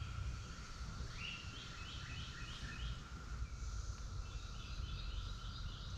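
Periodical cicada chorus from the Brood XIX emergence: a steady, even drone, with a bird singing two runs of quick repeated chirps over it and a low rumble underneath.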